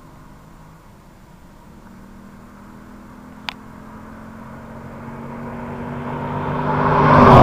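An LS1 5.7-litre V8 muscle car with an aftermarket exhaust approaching and driving past. Its engine note grows steadily louder to a peak at the very end, where the pitch begins to drop. A single sharp click about three and a half seconds in.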